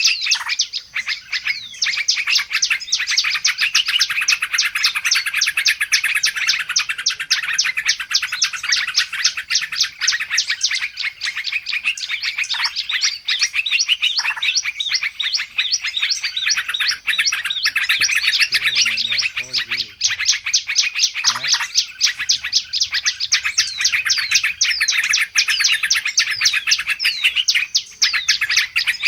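Bird-lure track of a dense, noisy chorus of many small songbirds: rapid chirps and short twittering sweeps that overlap without a break, a busy mix played to draw wild birds in.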